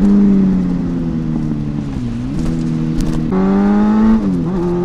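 Motorcycle engine running under load as the bike is ridden, its single steady pitch rising and falling, with sharp dips about two seconds in and near the end, like gear changes.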